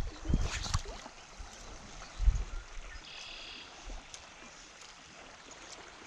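Stream water running, with a few short knocks and rustles of handling near the start and again about two seconds in, and a brief high chirp about three seconds in.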